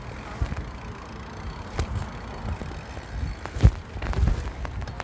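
Bicycle being ridden, heard from a phone on the rider's chest: low rumble with scattered clicks and knocks from the bike, and one sharp thump a little past halfway.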